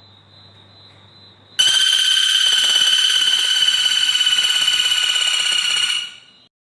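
A songbird's recorded call: a faint high thin tone, then about a second and a half in, a loud high buzzing trill held steady for about four seconds before it stops abruptly.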